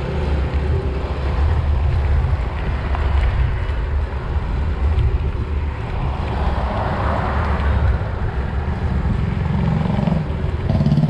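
Wind buffeting an action camera's microphone while cycling: a steady low rumble with road and traffic noise mixed in, swelling somewhat about six to eight seconds in.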